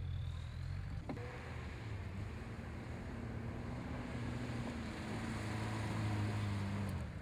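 Off-road 4x4's engine running steadily under load as it climbs a steep dirt slope, its level building a little toward the end.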